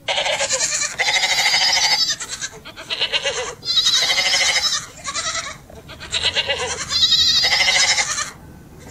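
Goat bleating, a series of about seven quavering bleats with short pauses between them.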